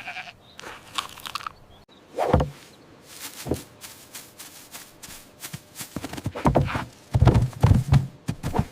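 An irregular series of sharp knocks and thumps, sparse at first and heaviest and most frequent in the last few seconds.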